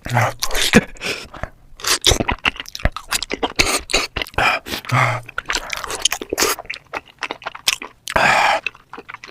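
Close-miked eating sounds: chewing with crisp crunching and wet mouth clicks, and a short noisy rush about eight seconds in.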